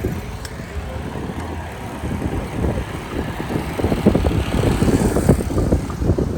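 City road traffic: a steady low rumble that swells as a vehicle passes about four to five seconds in.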